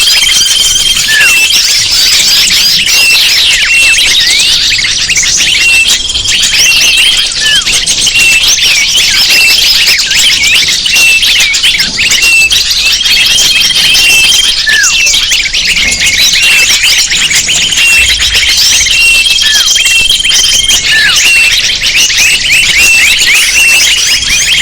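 Dense chorus of many small birds chirping and twittering, as played in a bird-luring recording. A high steady note is held for a second or two and comes back every few seconds, with short falling calls scattered through.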